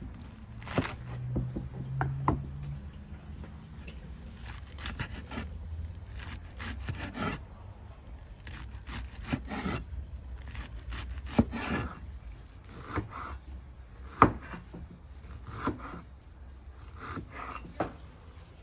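Irregular rubbing and scraping strokes, with a few sharp knocks among them, the loudest about fourteen seconds in.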